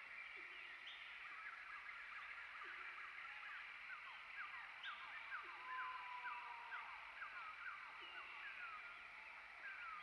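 Wild birds calling: a busy run of short, quick chirping notes over a steady high hiss, with a low hooting note about every two and a half seconds.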